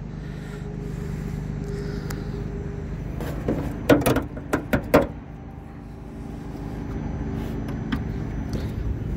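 A car engine idling steadily, with a few sharp clicks and knocks between about three and five seconds in from handling of the open hood.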